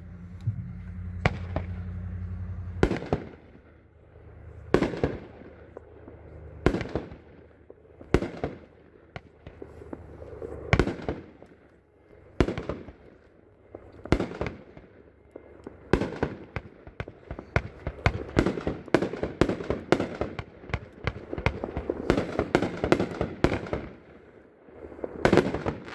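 A 20-shot consumer fireworks cake, 'Celebramos', firing: sharp shots a second or two apart at first, then a dense run of rapid crackling reports in the second half, with a few loud bangs near the end.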